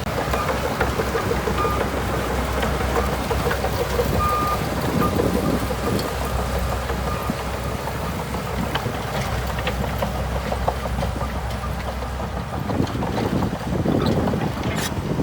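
Bulldozer's diesel engine running steadily, with scattered light clanks and some wind on the microphone.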